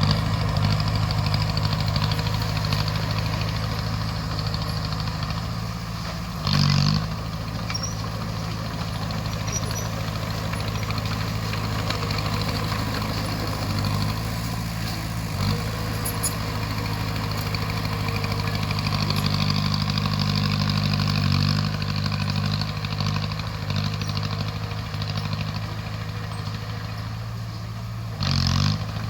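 Crawler bulldozer's diesel engine running steadily under varying load, with two brief louder surges, one about six seconds in and one near the end.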